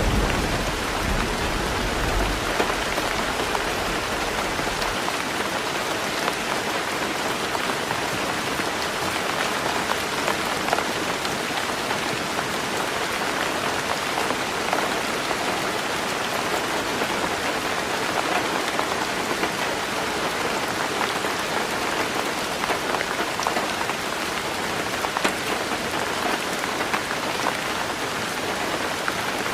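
Heavy rain drumming steadily on a tin roof, a dense even patter with scattered sharper drops. A low rumble dies away in the first few seconds.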